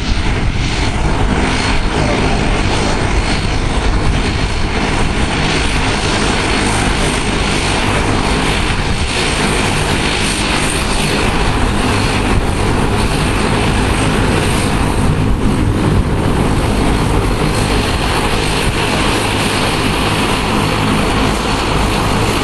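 Boeing 747 jet engines running in a loud, steady roar as the airliner departs after take-off.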